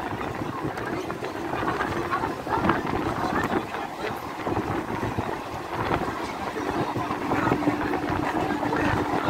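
Inside a moving passenger train: the coach rattles and knocks steadily over the track, with air rushing past. A steady hum comes in about two-thirds of the way through.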